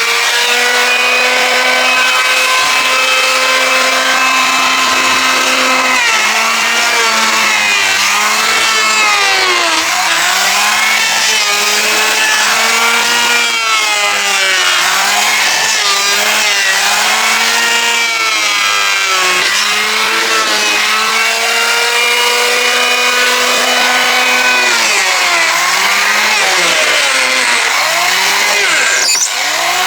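Chainsaw running at high speed while cutting timber, its whine sagging in pitch each time the chain bites into the wood and climbing back as it clears. This happens again and again, with steadier stretches at full speed in between.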